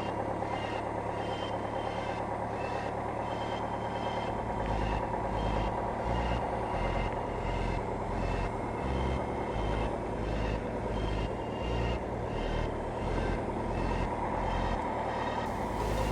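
Cessna 172M's four-cylinder Lycoming piston engine idling steadily just after start-up, with an uneven low throb. A faint regular pulse sounds a little faster than once a second throughout.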